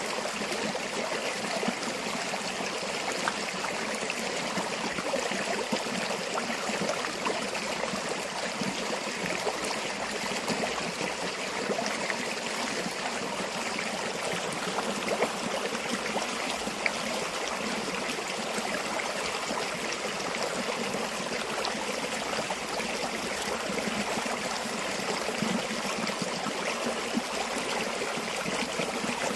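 Stream or small river flowing steadily, water babbling and trickling over stones.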